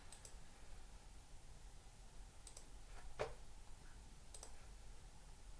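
A few faint computer mouse clicks, spaced irregularly, over quiet room tone.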